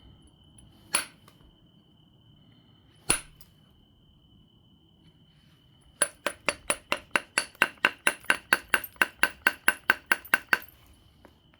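Two sharp percussion strikes on an obsidian biface, about two seconds apart. A few seconds later comes a quick, even run of about twenty light clicking taps on the stone, roughly four or five a second, ringing glassily.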